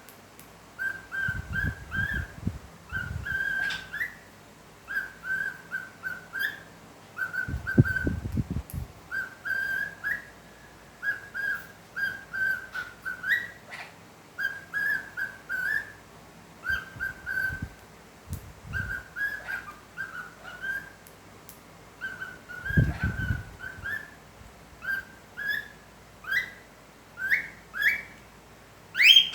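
Pet parrot whistling a tune over and over in short clear phrases of quick notes, some sliding upward. A few low thuds come in now and then.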